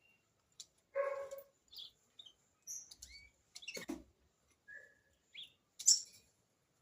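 Short high chirps and calls of a female green-winged saltator (trinca-ferro), with a longer nasal call about a second in. A few knocks come around four seconds, and a sharp click near six seconds.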